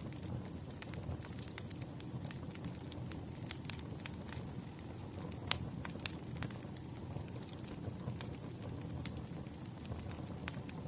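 Wood fire burning with a steady low rumble and frequent irregular crackles and pops from the burning firewood, one sharper pop about halfway through.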